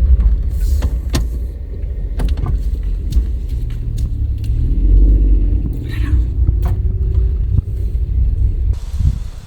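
Low, steady rumble of a vehicle running, with scattered clicks and knocks; about nine seconds in the rumble drops away and a faint hiss is left.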